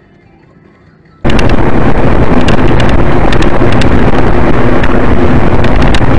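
Very loud, distorted vehicle noise from a dashcam microphone, mostly road and wind rumble with scattered crackles, starting abruptly about a second in and running on steadily.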